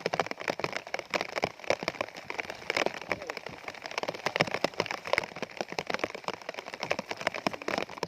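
Rain falling, with a dense, irregular stream of sharp drop hits on a surface close to the microphone.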